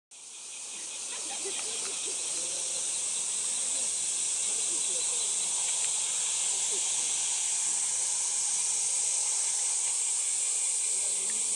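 A steady high-pitched hiss that fades in over the first second or so and then holds level.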